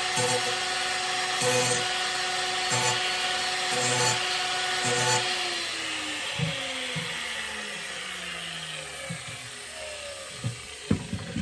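Large angle grinder running and grinding a steel lawn mower blade in about five short passes, each a second or so apart. About five seconds in it is switched off and its whine falls steadily as the disc spins down, followed by a few knocks near the end.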